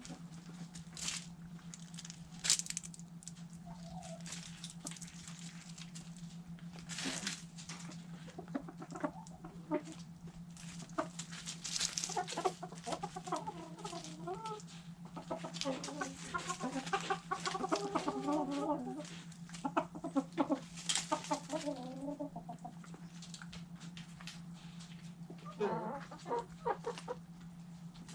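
Backyard hens clucking in runs of short calls, busiest in the middle and again near the end, while sharp pecking clicks at food scraps come throughout. A steady low hum runs underneath.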